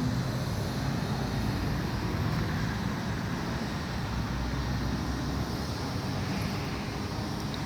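Steady low background rumble with no distinct events, of the kind that road traffic or a running engine makes.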